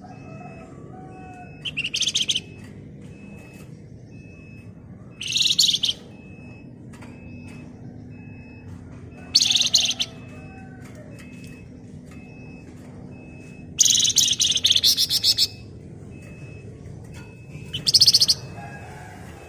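A songbird kept in Indonesia as the 'flamboyan' singing in short, dense, shrill rattling trills. There are five bursts roughly four seconds apart, the fourth the longest at nearly two seconds.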